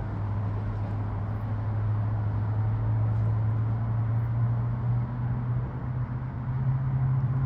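Steady low vehicle drone with a faint hiss. The hum's pitch rises slightly near the end.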